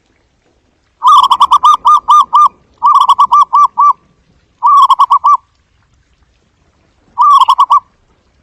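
Zebra dove giving its staccato cooing call: four bouts of quick, rolling notes, the first and longest about a second and a half, the last short, with silent gaps between.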